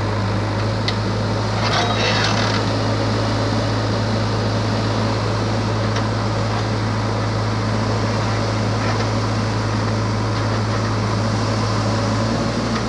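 A truck engine running with a steady low drone that eases slightly near the end, with voices murmuring in the background.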